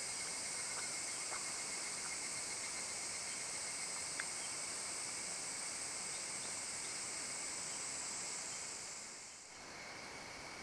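Steady high-pitched chorus of insects in a forest, with a few faint short chirps; it dips briefly about nine seconds in and comes back a little quieter.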